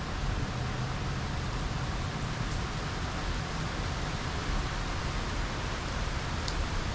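Steady hiss of rain during a thunderstorm, with a few faint ticks near the end.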